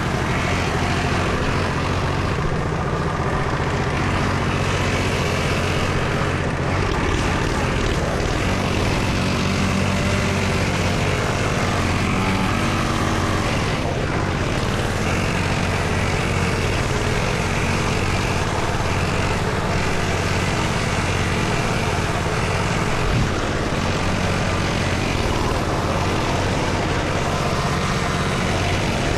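Small dirt bike engine running with a steady buzzing drone.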